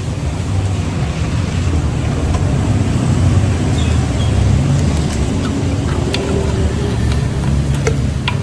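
Steady low rumble of road traffic, with vehicle engines running close by. A few sharp clicks or knocks come near the end.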